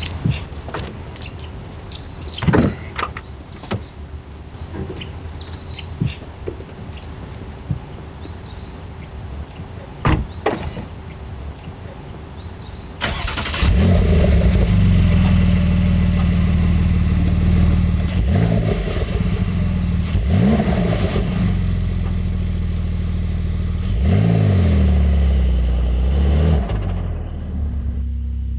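Porsche 992.2 Carrera T's 3.0-litre twin-turbo flat-six, fitted with a TECHART TsportR kit, starting about halfway in and then idling with three sharp throttle blips. Before the start, birds chirp and there are a couple of thumps. Near the end the engine sound turns muffled.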